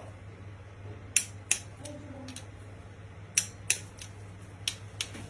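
Sharp metallic clicks from a hand wrench working on the connecting rod cap bolts, which are being torqued to 18 Nm; about nine clicks, irregularly spaced, over a low steady hum.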